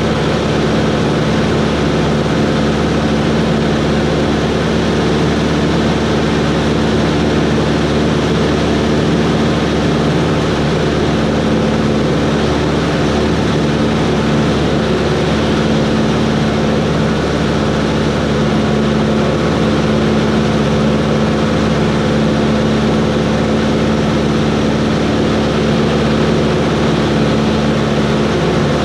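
Cessna 140's single piston engine and propeller running at steady power, with an even drone and no change in pitch.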